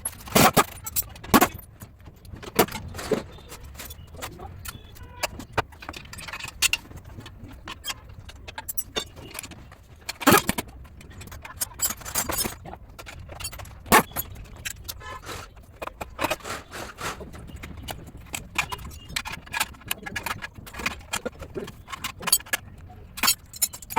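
Irregular metallic clinks and knocks from tools and metal parts being handled, with a few sharper strikes about half a second in, at about ten seconds and at about fourteen seconds.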